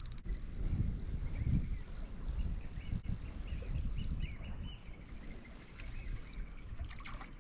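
Spinning fishing reel being cranked to wind in a hooked squid, its gears ticking over a steady low rumble of wind on the microphone.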